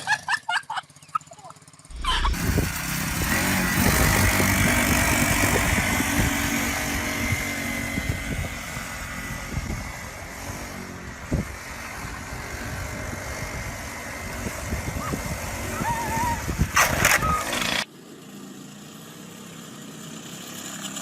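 Motorcycle engine running, heard through dense noise such as wind on the microphone; it starts sharply about two seconds in and stops abruptly near the end.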